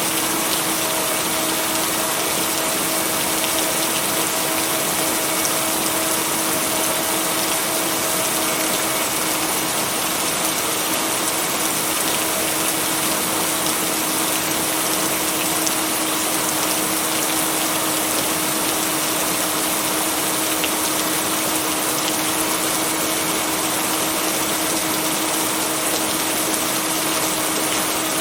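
Steady rain, an even hiss with no thunder. A constant humming tone runs underneath, the binaural-beat layer blended into the rain track.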